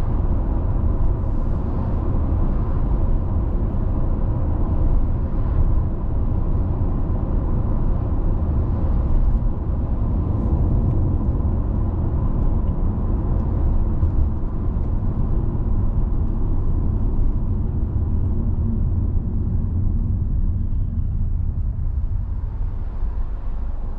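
Steady road noise of a car driving: a constant low rumble of tyres and engine, with a faint steady hum.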